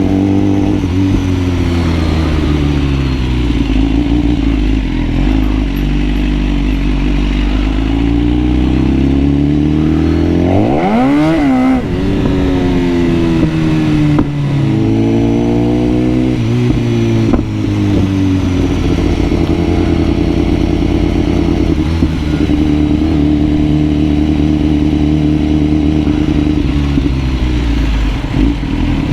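BMW superbike engine running under way, its pitch rising and falling with the throttle, with one sharp rev that climbs steeply and drops back about eleven seconds in.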